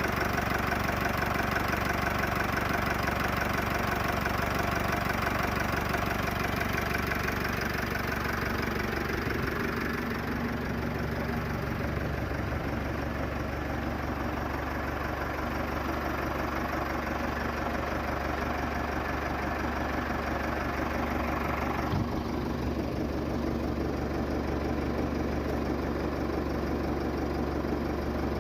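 Nuffield Universal DM4 tractor's four-cylinder diesel engine idling steadily. About two-thirds of the way through, the higher-pitched part of its sound drops away abruptly while the low running continues.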